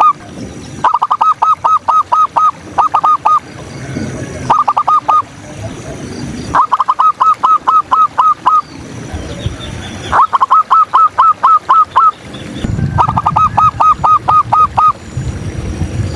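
Zebra doves (perkutut) cooing: about six loud bursts of quick, evenly spaced staccato notes, with short pauses between bursts.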